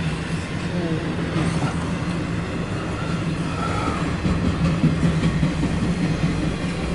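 Intermodal freight train's trailer-carrying flatcars rolling past close by, heard from inside a car: a steady rumble of steel wheels on the rails with scattered light clacks.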